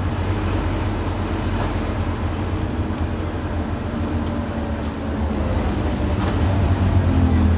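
Scania N230UD OmniCity bus's diesel engine running steadily with a deep rumble and a faint whine, getting louder about seven seconds in as it pulls harder.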